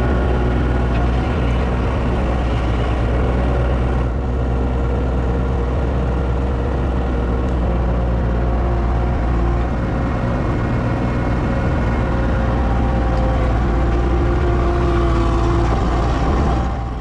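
A large engine running steadily at constant speed, with a deep, even hum.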